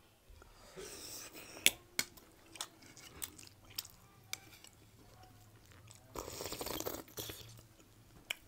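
Close-up eating sounds: chewing and biting into momo dumplings and crisp fried sha phaley, with many sharp clicks and crunches, the loudest nearly two seconds in, and two longer noisy stretches about a second in and again around six seconds in.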